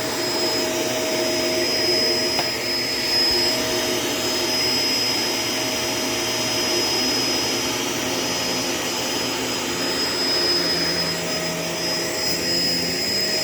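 Shark LA702 Lift-Away upright vacuum cleaner running steadily, a rush of suction with a steady high whine from its motor.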